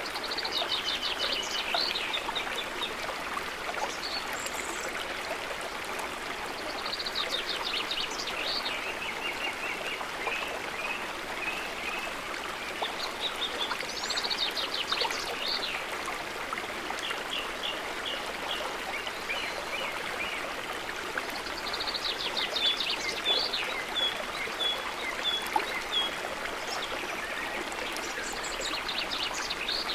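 Stream water running steadily, with a songbird singing short trilled phrases over it about every seven seconds.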